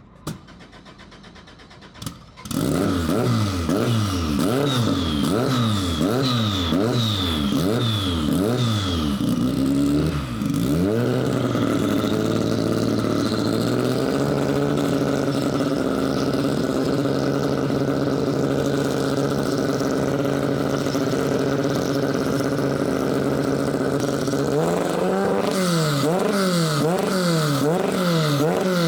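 Toyota TOM'S 85C-L Group C race car's turbocharged four-cylinder engine firing up about two and a half seconds in, then blipped repeatedly on the throttle in quick rising and falling revs. It settles to a steady idle at about twelve seconds, and is blipped again in quick revs near the end.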